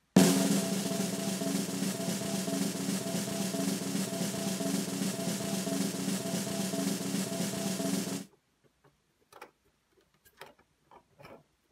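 A drum roll sound effect runs for about eight seconds, starting suddenly and cutting off sharply, followed by a few faint clicks.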